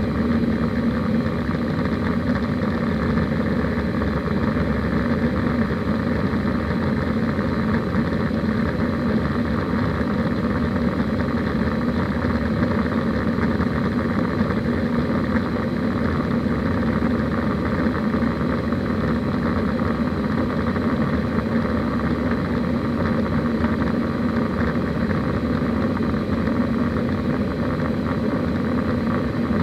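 Steady cabin noise inside an Airbus A320 in flight: engine drone and rushing airflow with a constant low hum.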